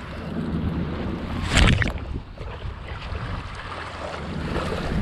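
Wind buffeting the microphone over water lapping around a kayak, with one short loud noise about a second and a half in.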